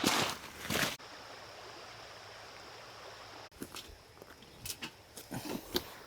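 Creek water flowing steadily, cut in between stretches of loud rustling handling noise at the start and scattered clicks and knocks near the end.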